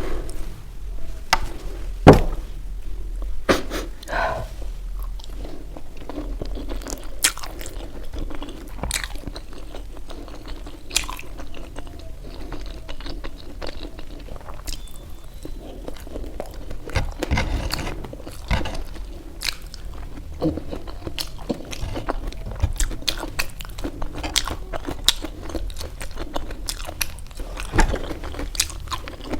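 Close-up eating sounds of momo dumplings: steady wet chewing with frequent crunchy bites and small mouth clicks, the sharpest crunch about two seconds in.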